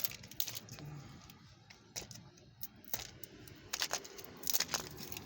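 Plastic and cardboard toy packaging being handled and pried at: scattered clicks, crackles and light rattles, with a denser cluster of sharp clicks near the end.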